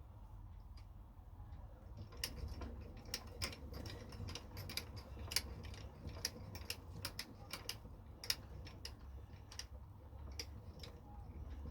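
Irregular light clicks and taps, a few a second, over a low steady hum. They start about two seconds in and thin out near the end.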